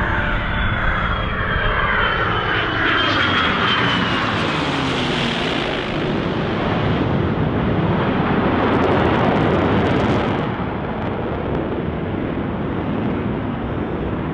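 Heritage Flight warbird and jet, an F-22 Raptor with a P-51 Mustang, flying past. The engine pitch falls over the first few seconds as they pass, then a broad jet roar swells to its loudest about nine to ten seconds in and eases off.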